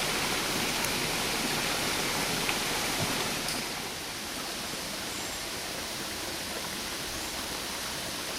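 Steady rush of running water, a waterfall or stream, that eases off slightly about four seconds in.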